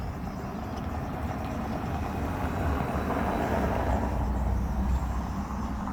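A road vehicle passing by: a rushing, rumbling noise that grows to a peak about three to five seconds in, then eases off.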